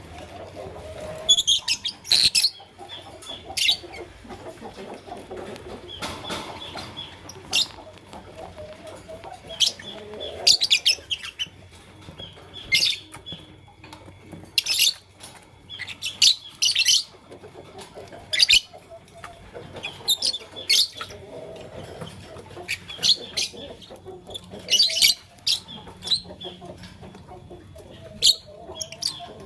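Lovebirds giving short, shrill chirps, often in quick clusters, every second or two, over a fainter, lower chatter.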